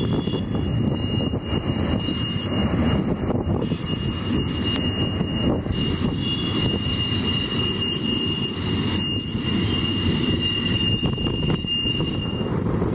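Union Pacific double-stack container cars rolling past close by on the grade, making a loud, steady rumble of wheels on rails. A steady high-pitched squeal rides over the rumble from about a second in until near the end.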